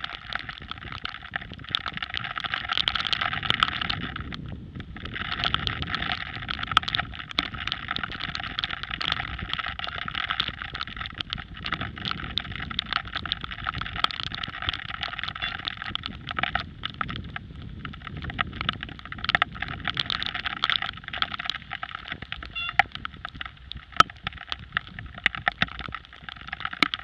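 Rain ride noise on a bicycle rolling slowly over wet concrete: steady wet tyre and road hiss with many small sharp ticks of raindrops hitting the action camera's housing.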